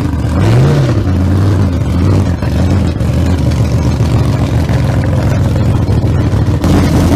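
A vehicle engine running at idle, blipped once about half a second in so its pitch briefly rises and falls, then idling steadily with an uneven beat until it cuts off suddenly.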